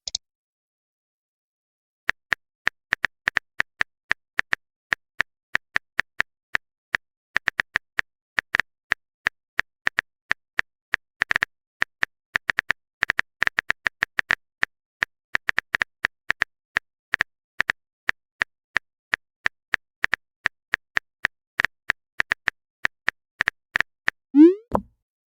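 Phone-keyboard typing sound effect: a long run of short, identical tapping clicks at an irregular few per second, as a chat message is typed. Near the end comes a short rising bloop, like a message-sent notification.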